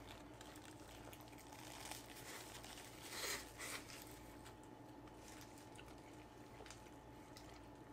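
Near silence with faint chewing of a mouthful of sushi burrito: a few soft mouth sounds about two and three seconds in.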